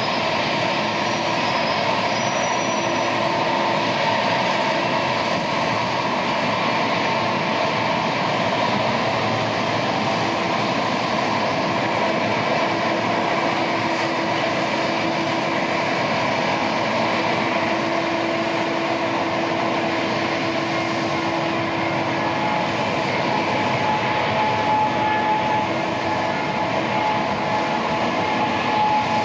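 Boeing 777-281ER airliner's jet engines running, a steady, loud noise with a faint whining tone in it that holds throughout.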